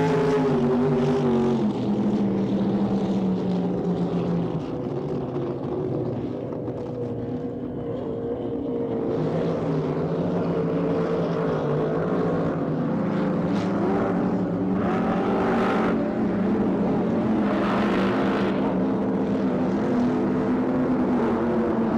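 Offshore racing powerboat engines running at high power, a continuous drone whose pitch dips and climbs over several seconds as the boats pass and change speed.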